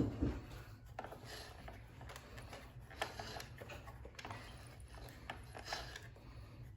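Irregular light mechanical clicks and rattles over a faint low hum.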